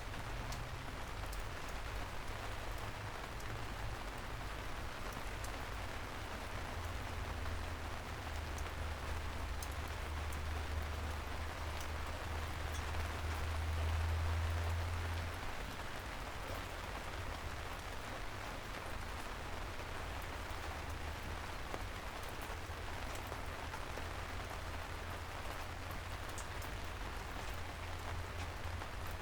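Steady soft rain falling on city streets, with scattered drops ticking. Under it runs a low rumble that swells to a peak about halfway through, then drops back suddenly.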